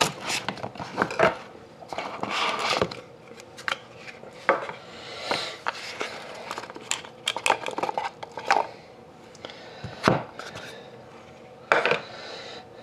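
Hands opening and handling a metal trading-card tin and the cards inside: irregular clinks, sharp clicks and short rustles, the sharpest click about ten seconds in.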